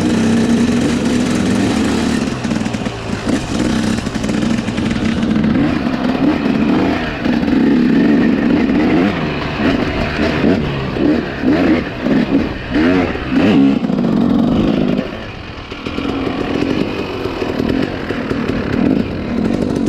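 Small dirt bike engine running under riding load, revving up and down with the throttle and easing off about fifteen seconds in.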